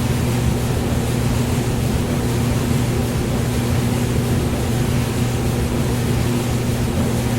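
Hair dryer running steadily: an even rush of blown air over a constant low motor hum.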